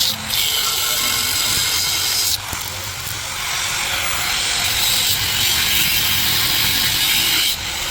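Stick-welding arc crackling and hissing steadily as a welding rod burns, with a brief break about two and a half seconds in. The arc cuts off near the end.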